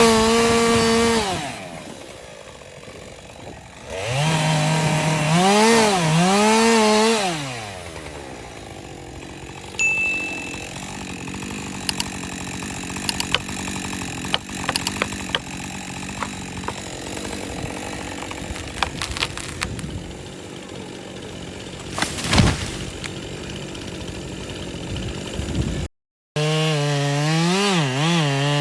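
Chainsaw revving and cutting in bursts, its pitch dipping and wobbling under load, and idling low between the bursts. During the idle there are scattered sharp cracks and one louder crack about two thirds of the way in.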